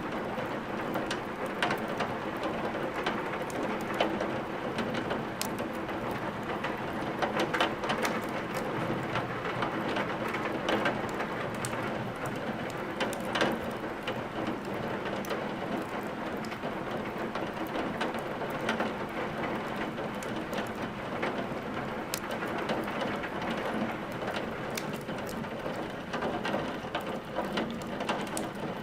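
Steady rain mixed with a crackling wood fire: an even hiss with a constant scatter of small, sharp pops and snaps from burning logs.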